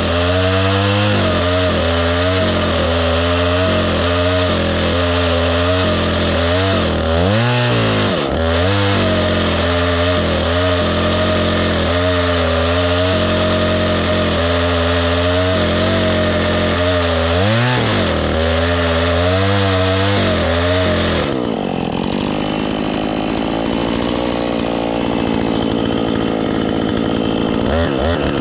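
Husqvarna two-stroke chainsaw running at full throttle through a cut in dead elm wood with a dull chain, its engine pitch dipping and recovering twice as it is loaded. About three quarters of the way through it drops to idle, then revs up again near the end.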